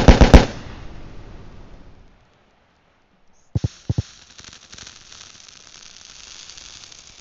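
Fireworks going off: a quick run of sharp bangs, then a crackling hiss that fades away. After a short gap come two dull thumps and a faint steady hiss.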